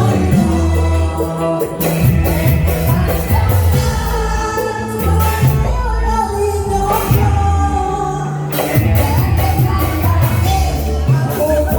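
Live band music: a vocalist sings a melody over a steady beat of drums and bass.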